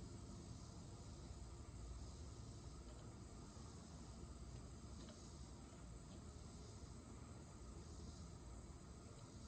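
Steady, high-pitched insect chorus shrilling without a break, over a faint low background rumble.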